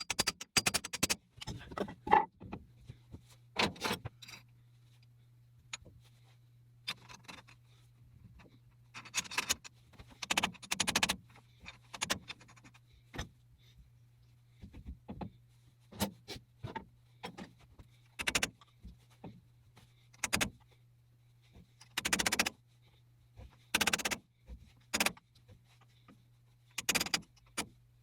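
Irregular metallic clinks, clatters and scrapes of metal tools or parts being handled. A steady low hum begins about two seconds in.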